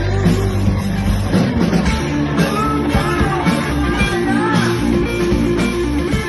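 Rock band playing: electric guitar, bass and drums in a steady, driving beat.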